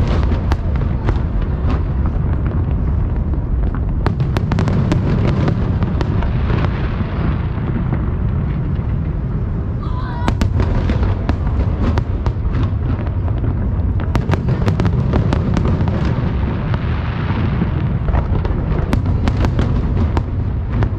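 Fireworks display: a dense, continuous run of shell bursts, with sharp bangs and cracks over a steady low rumble. Hissing crackle swells about a third of the way in and again near the end.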